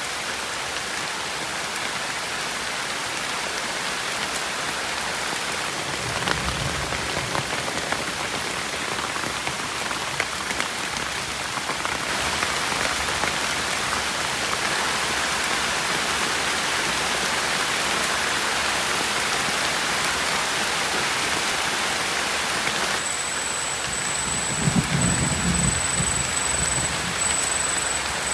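Heavy rain falling steadily, with low thunder rumbling briefly about six seconds in and again near the end.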